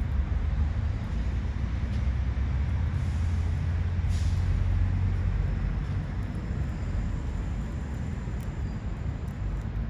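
A steady low rumble with an even hiss over it, and a few faint pops and a short hiss about four seconds in from ubame oak firewood burning.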